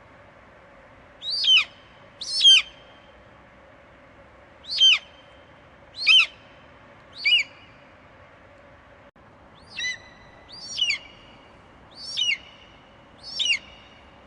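Eagle screeching: nine short, high calls, each falling sharply in pitch, coming about a second apart with a longer pause midway. A faint steady hum runs underneath.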